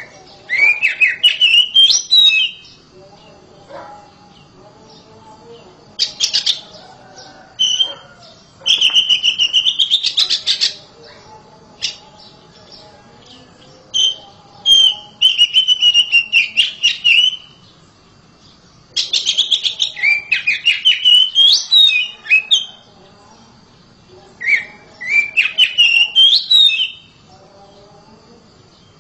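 Oriental magpie-robin (kacer) singing loudly in repeated phrases of rapid, rising and falling whistled notes, about six bursts with short pauses between them.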